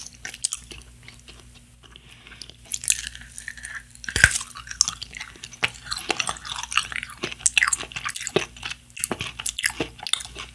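A person chewing a sugar-coated blue roll jelly strip, close to the microphone. It is fairly quiet at first, then from about two and a half seconds in comes a dense run of short mouth clicks and smacks, with one sharper click a little after four seconds.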